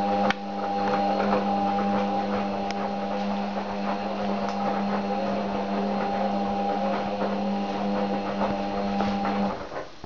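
Beko washing machine running with a steady hum and light clicking and rattling, which cuts off shortly before the end.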